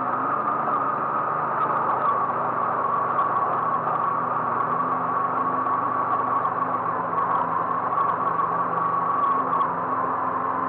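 A car running steadily, with engine hum and road noise and no change in pace.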